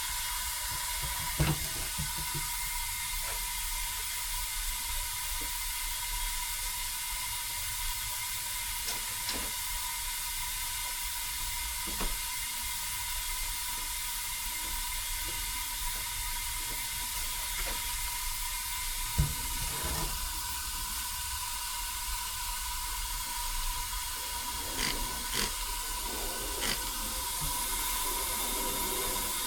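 A steady hiss with a faint steady high tone, broken by a few light clicks.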